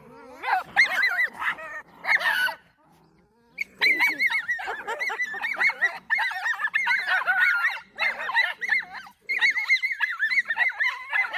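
Schnauzer puppy whining and yipping in high, wavering "woo woo" calls. There are a few short calls at first, a brief pause about three seconds in, then an almost unbroken run of calls.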